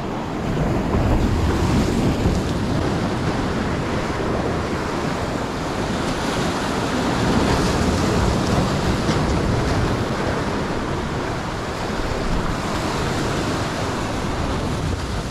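Sea surf washing against a rocky shore, a steady rushing wash that swells and eases, with wind buffeting the microphone.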